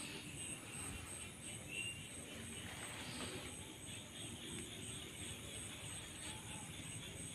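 Night insects chirping in a steady, evenly pulsing high trill, over low rumbling handling and movement noise.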